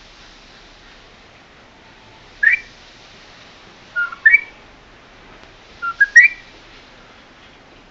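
Pet bird giving three short rising whistles about two seconds apart, the second and third each in two quick notes.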